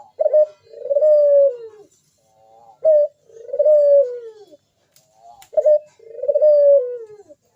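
Puter dove (ringneck dove) cooing: three repeated calls about 2.7 s apart, each a short clipped note followed by one long coo that drops in pitch at its end. A single sharp click comes about five seconds in.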